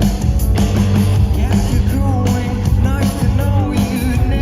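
Live pop-rock band playing at full volume, with drums, bass and guitar under a sung lead vocal line.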